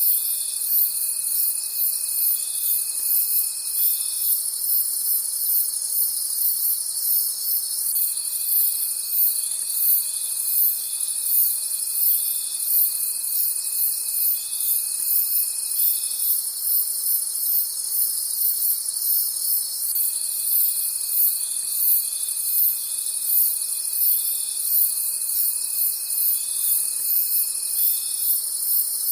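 Chorus of night crickets chirping in quick, even pulses over a steady high trill. A thinner, lower steady tone joins in for stretches of several seconds at a time, then drops out.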